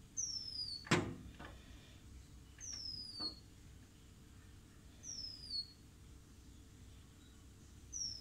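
A bird repeats a short, high call that falls in pitch, four times about every two and a half seconds. About a second in comes one sharp knock, with a few fainter taps after it, fitting a woodpecker pecking at a glass mirror.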